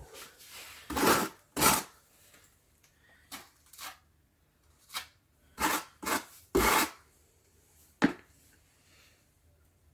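About nine short, irregular scraping strokes, a trowel spreading fire-resistant adhesive on artificial decorative stone.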